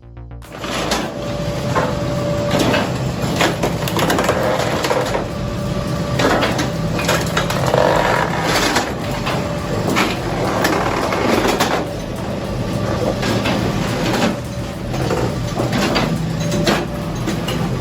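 Heavy wood-processing machinery running with a steady hum, while wood cracks and knocks again and again as logs are split and handled.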